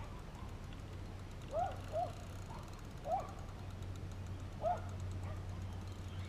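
A bird calling with four short chirps, each rising and then falling in pitch, over a steady low hum.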